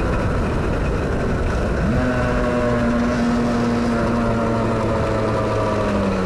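Rieju RS3 NKD 50cc two-stroke motorcycle engine heard from the rider's seat. Its note drops away during a gear change, then comes back with a short rise about two seconds in and holds steady, easing down slightly near the end. It is one of the clumsy shifts the rider admits to.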